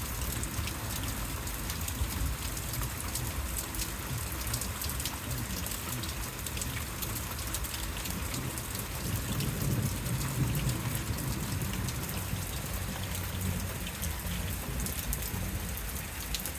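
Heavy rain falling steadily, with a low rumble of thunder about nine seconds in that lasts a couple of seconds.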